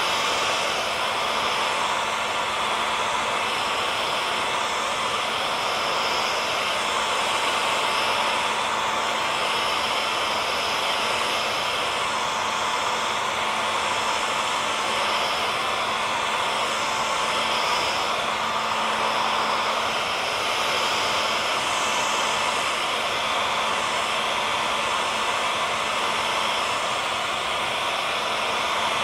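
Hair dryer running continuously: a steady blowing rush with a fixed motor hum.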